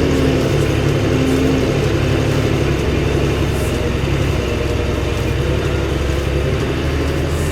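1976 Deutz 8006 tractor's air-cooled six-cylinder diesel running steadily under load while pulling a deep ripper.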